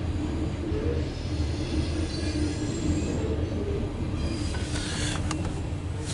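Loaded CSX coal train's cars rolling past: a steady rumble of wheels on the rails with a faint high-pitched wheel squeal above it.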